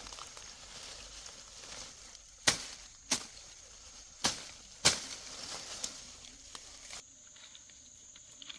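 Four sharp knocks in two pairs, each pair about half a second apart, over a steady high whine and a hiss that stops abruptly about seven seconds in.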